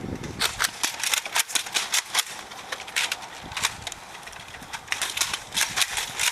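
Nerf dart blasters being fired and primed: an irregular run of sharp clicks and snaps, coming in quick clusters of several a second.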